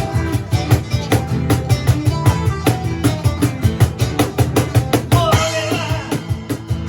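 Rock band playing live: a drum kit keeps a busy, steady beat over bass and guitar. A wavering voice or lead line comes in briefly near the end.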